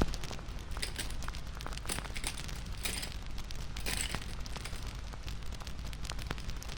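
Wood fire crackling: irregular sharp pops and snaps over a low steady hiss, with two louder hissing flare-ups about three and four seconds in.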